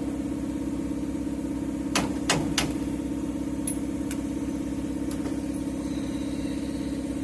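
A motor runs with a steady, even throb. About two seconds in come three sharp metal clinks.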